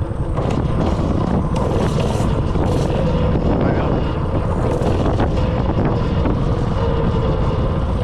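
196cc mini bike engine running while the bike is ridden, its pitch wavering slightly, with heavy wind buffeting the microphone.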